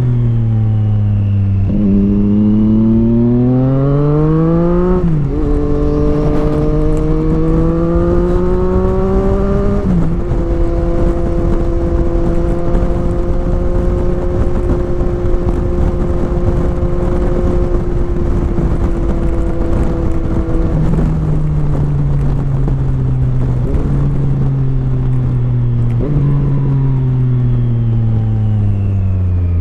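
Sport motorcycle engine pulling up through the gears, with shifts about 5 and 10 seconds in. It then runs at a steady speed for about ten seconds before slowing, dropping down through the gears in three steps near the end.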